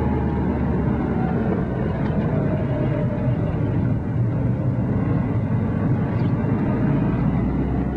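Split-window VW Beetle's air-cooled flat-four engine running steadily under way, heard from inside the cabin.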